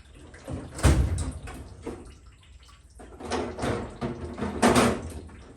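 Metal knocks and scraping as a stuck water pump is forced off the engine with a tool: one heavy knock about a second in, then a run of knocks and scraping near the end, the last of them the loudest.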